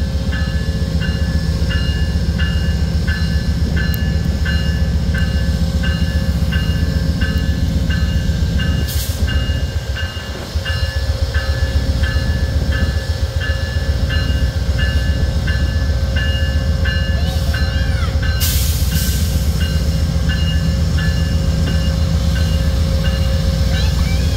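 Amtrak P42 diesel locomotive running with a heavy low rumble as it slowly pulls through a grade crossing. The crossing bell rings steadily at about one and a half strikes a second.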